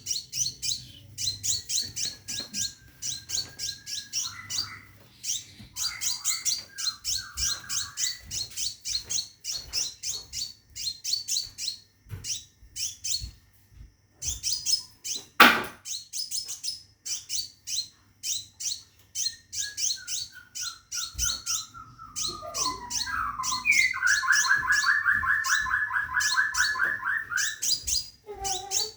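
Caged scarlet minivet (sepah raja) calling in long runs of fast, high chirps, about four a second, broken by short pauses. A single sharp knock sounds about halfway, and a louder, lower rapid trill comes in for a few seconds near the end.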